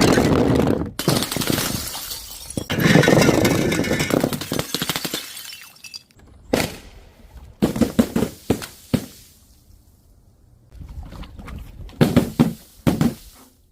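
Glass bottles shattering and crunching, a long break followed by several shorter smashes with pauses between.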